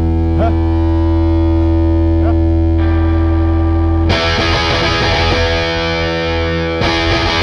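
Live garage-rock music: a distorted electric guitar holds a ringing chord, then the sound thickens into a louder, noisier wash about four seconds in and again near the end.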